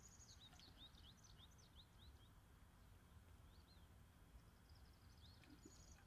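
Near silence with faint bird chirps: a quick run of short high chirps in the first two seconds and a few more toward the end, over a low steady hum.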